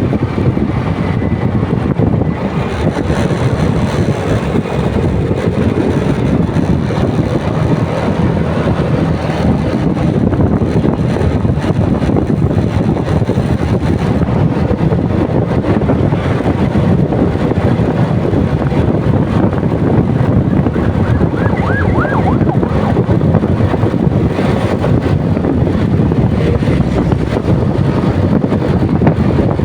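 Motorcycle under way: steady engine and road noise with wind buffeting the microphone.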